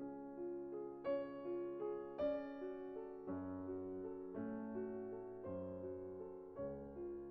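Soft background piano music: slow notes and chords changing about once a second, with a few louder chords struck along the way.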